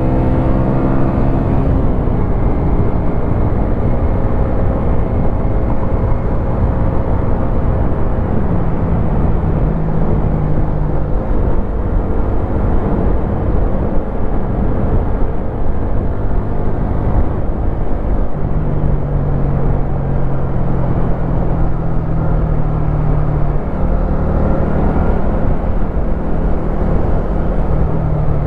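Wolf Classic 125cc motorcycle engine running under way, heard over a dense rush of wind and road noise. The engine note falls over the first two seconds, then holds steady for stretches, with small rises and falls in pitch.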